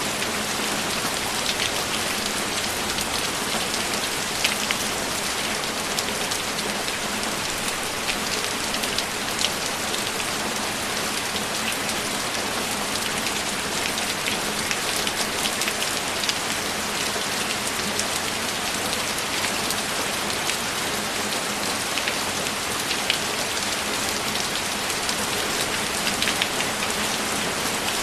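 Steady, heavy rainfall, a dense even hiss with scattered sharper drop ticks.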